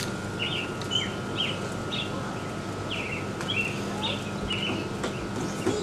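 A small songbird chirping over and over in short, irregular notes, about two a second, with a few light clicks.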